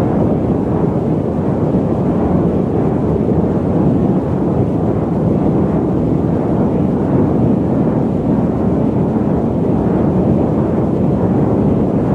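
Loud, steady static noise: an even, deep rushing hiss with most of its weight in the low and middle range and little treble, unchanging throughout.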